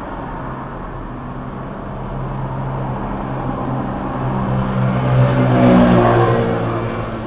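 A motor vehicle's engine passing close by in street traffic, pulling away with its pitch rising and growing louder about five to six seconds in, then fading, over a steady hiss of street noise.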